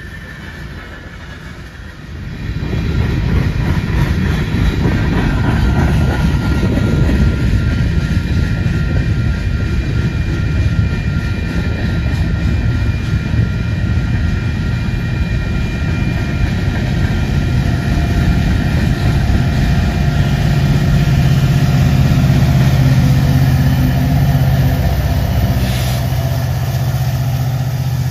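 Freight train coal hopper cars rolling past on steel rails: a steady rumble and clatter of wheels on the track, with thin wheel squeal, that jumps louder about two seconds in. Near the end the low, steady drone of a Union Pacific diesel locomotive's engine grows as it comes by, with one sharp clank.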